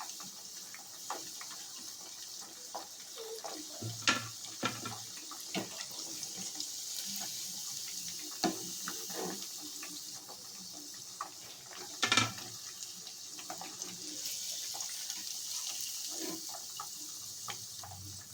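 Marinated chicken pieces deep-frying in hot oil, with a steady sizzle. Occasional clinks and knocks of a utensil against the pan; the loudest comes about twelve seconds in.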